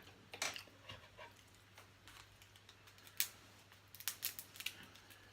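Scattered faint clicks and cracks of a blue crab claw being eaten close to the microphone: shell cracking and chewing, with the sharpest crack about three seconds in and a quick run of small clicks near the end.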